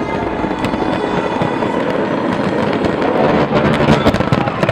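Fireworks display bursting and crackling continuously, the crackle growing denser in the second half, with music fading out underneath.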